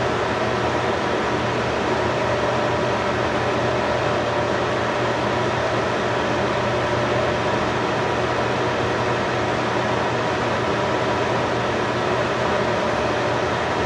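Steady mechanical hum with a constant hiss that does not change.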